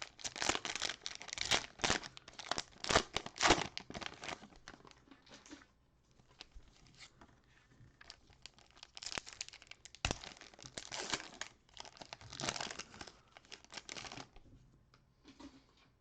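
Cellophane trading-card pack wrapper being torn open and crinkled by hand. There are two stretches of crackling with a short pause in the middle.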